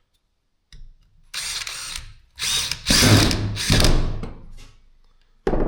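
Power driver running in three short bursts, driving screws back into a cordless drill's housing, followed by a sharp knock near the end.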